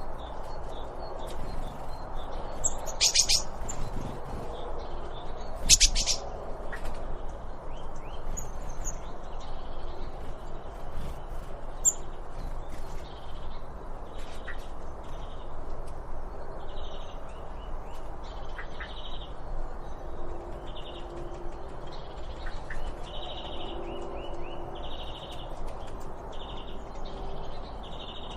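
Songbirds chirping over steady outdoor background noise. Two loud rapid calls come about 3 and 6 seconds in, then one bird repeats a short chirp roughly once a second through the second half.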